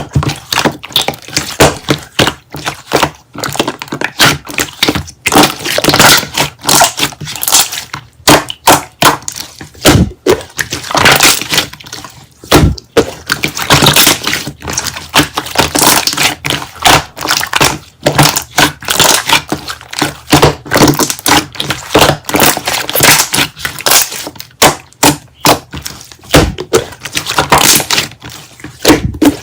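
Slime being squished and worked by hand, making dense, irregular clicks, pops and crackles.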